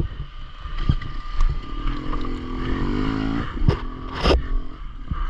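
Enduro motorcycle engine running, with a steady pitched note for about a second and a half near the middle. Several sharp knocks and low rumble run alongside it.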